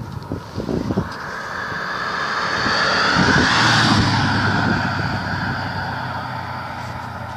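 Mercedes-Benz W108 saloon driving past: the engine and road noise build to a peak about halfway through and then fade away as it goes off. Wind buffets the microphone in the first second.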